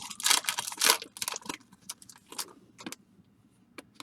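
Baseball card pack wrapper crinkling and rustling as it is torn open and the cards are pulled out. It comes in a quick run of crackles that stops about three seconds in.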